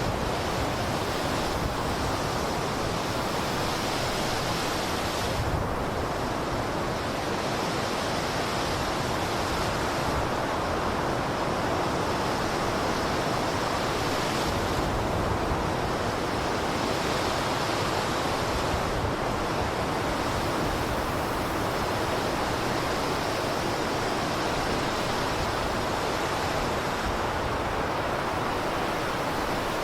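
Blizzard wind blowing steadily, a dense, even rushing hiss with slight swells in strength but no gusts or breaks.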